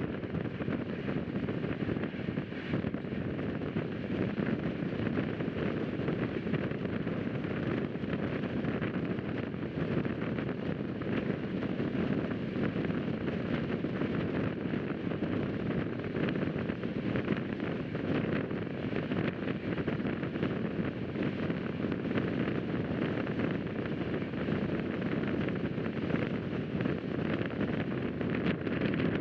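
Rajdhani Express passenger train on the move: a steady, unbroken rumble and rush of air with no distinct rhythm standing out.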